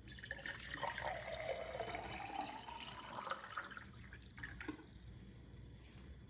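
Water running into a container, its pitch rising as the vessel fills, stopping about four and a half seconds in.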